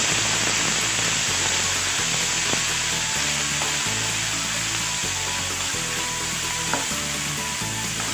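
Onion and tomato strips sizzling steadily in hot oil in a non-stick frying pan while being stirred with a plastic spatula, with a few light scrapes and taps of the spatula against the pan.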